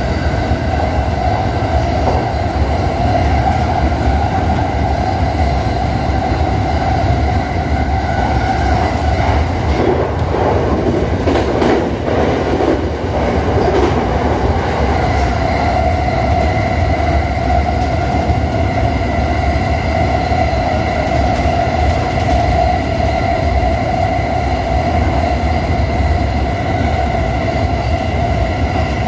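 E217 series electric train running along the line, heard from inside the driver's cab: a continuous running rumble with a steady tone over it. About ten seconds in, the noise turns rougher for a few seconds before settling back.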